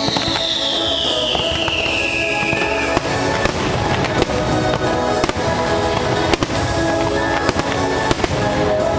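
Fireworks bursting, a run of sharp bangs and crackles from about three seconds in, over the show's music soundtrack. A high tone glides downward during the first few seconds.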